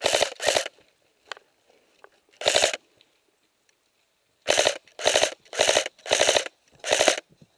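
Airsoft electric gun (AEG) firing short bursts on full auto, about eight bursts of rapid shots, close to the microphone.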